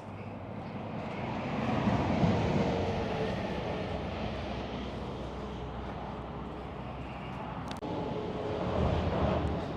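Road traffic passing: vehicles driving by on the highway, the noise swelling about two seconds in and again near the end.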